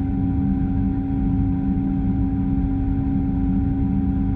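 Case IH 7088 combine's diesel engine left running steadily at an even speed with a constant hum, cooling down before shutdown.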